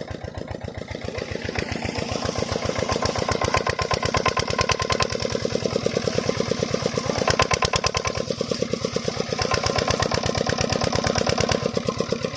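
8 HP single-cylinder diesel water-pump engine running with a fast, even knocking beat, picking up and growing louder over the first few seconds, then holding steady.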